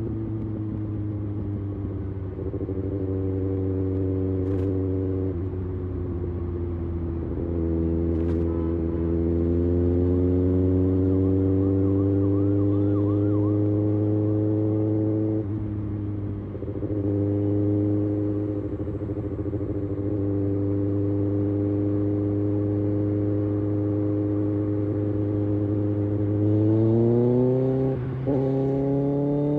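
Kawasaki Ninja ZX-6R's inline-four engine running under way, its pitch holding level at times and slowly climbing as the bike gently picks up speed. The climb comes twice, the second time near the end.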